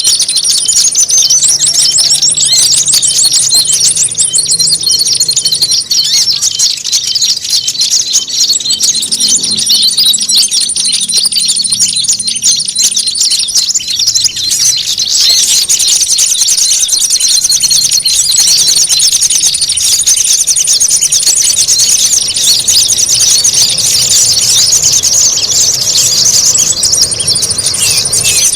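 A dense chorus of small songbirds chirping and trilling rapidly over one another. It is a noisy bird-lure (pikat) recording of agitated, fighting-style calls meant to draw in small birds. A thin, steady high trill cuts in and out several times over it.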